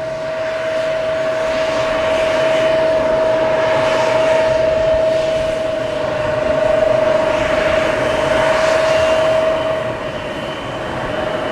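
Embraer E170 turbofan jets running at takeoff power: a steady, loud whine over a rushing jet noise that swells and eases as the airliner rolls for takeoff.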